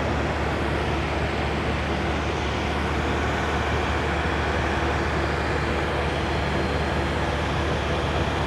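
Steady low rumble of idling vehicle engines, an even hum with no change through the stretch.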